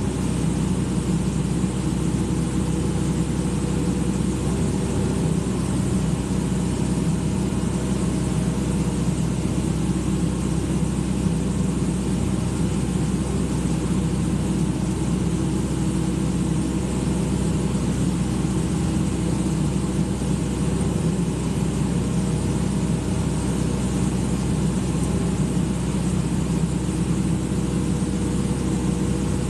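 Excavator's diesel engine running at a steady speed, an unbroken low drone that holds the same level throughout.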